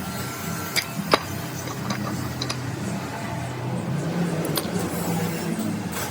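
A machine running with a steady low hum, with a few sharp metallic clicks and knocks over it, the loudest about a second in.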